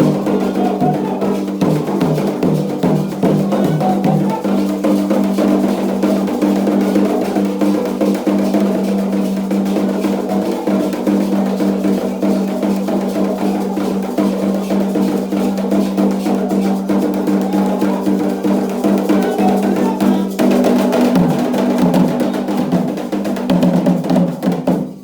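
Fast, continuous drumming on Candomblé atabaque hand drums, dense and unbroken, fading out at the very end.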